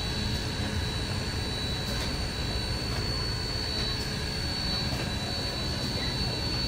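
Durango & Silverton narrow-gauge steam train running, a steady rumble with a thin high tone held on top.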